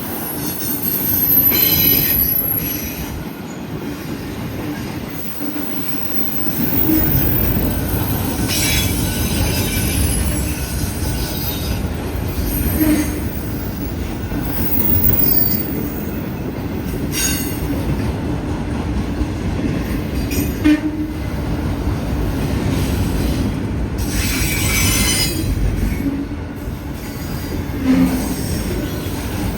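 Freight train cars rolling past in a steady rumble of steel wheels on rail. Bursts of high-pitched wheel squeal come every several seconds, with a few sharp knocks from the passing cars.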